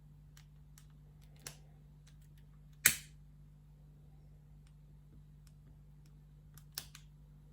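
Scattered light clicks and taps from small objects being handled, with one sharper, louder click about three seconds in, over a steady low hum.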